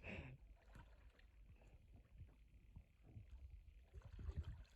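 Near silence: faint water and paddle sounds around a kayak, a few soft knocks that grow a little louder about four seconds in.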